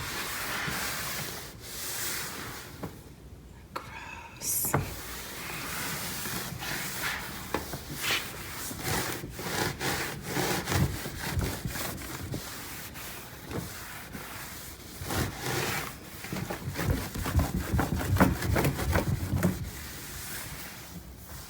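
An E-Cloth cleaning cloth, used with just water, rubbing over a car surface in repeated irregular wiping strokes, the strokes coming harder and faster near the end.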